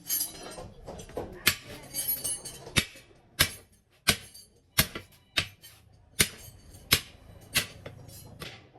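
Repeated sharp strikes, like hammer blows on metal, about three every two seconds, after some irregular clattering in the first couple of seconds.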